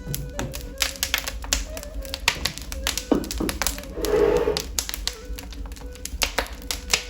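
Wood fire crackling in a fireplace, with frequent irregular sharp pops and snaps, and a brief hissing swell about four seconds in.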